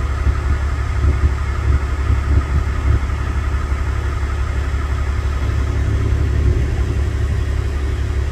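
Vehicle engine idling steadily, a low even drone.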